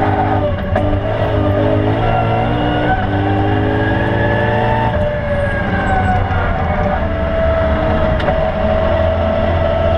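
BMW E92 M3's V8 engine heard from inside the cabin on track, climbing in pitch under acceleration for the first few seconds, easing off about halfway through, then holding a steadier note, over constant tyre and road rumble.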